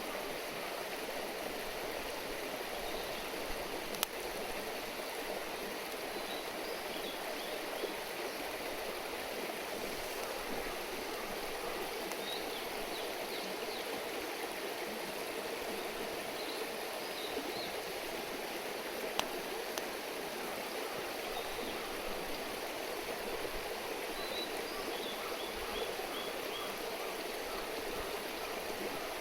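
River stream babbling steadily, with a couple of sharp pops about 4 and 19 seconds in.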